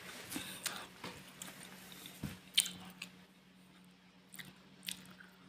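Close-up biting and chewing of a crispy pizza slice: a run of short crunches, the sharpest about two and a half seconds in, with a faint steady hum underneath.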